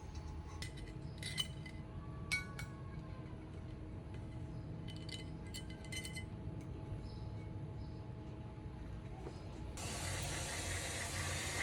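Light metallic clinks of tools and parts, some ringing briefly, over a low steady hum. Near the end a steady hiss starts and runs on.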